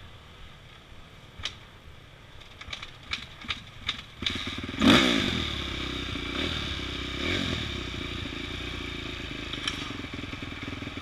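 Dirt bike engine starting about four seconds in, revving up briefly, then running steadily with a couple of small blips of throttle. Before it, scattered light clicks and knocks.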